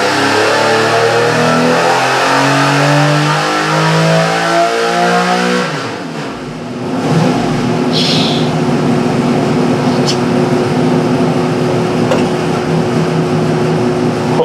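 Built Buick V6 race engine running naturally aspirated on an engine dyno at full throttle under load: the revs climb steadily for about five seconds, then the throttle shuts and the revs fall away. It settles to an even idle, with a short hiss a couple of seconds later.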